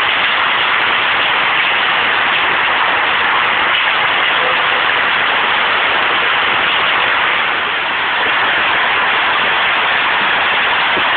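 Heavy rain falling in a storm: a dense, even rush of noise with a slight lull about eight seconds in.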